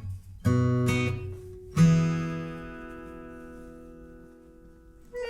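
Acoustic guitar strumming chords, the second chord about two seconds in left to ring out and slowly fade.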